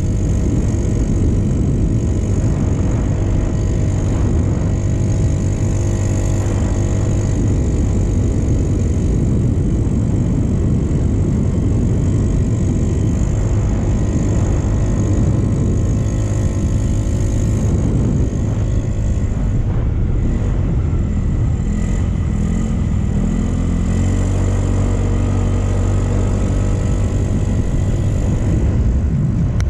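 Motorcycle engine running steadily under way, with a low road rumble; the engine's pitch shifts a little about two-thirds of the way through.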